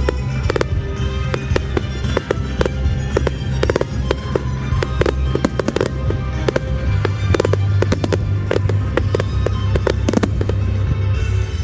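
Fireworks going off in a rapid run of bangs and crackles, mixed with music that has a steady bass line.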